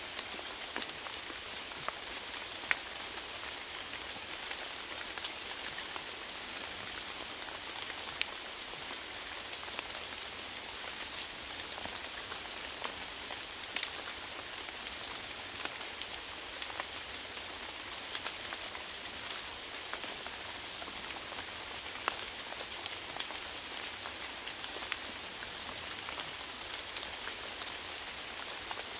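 Steady rainfall: an even hiss of rain with scattered louder single drops ticking, a few standing out.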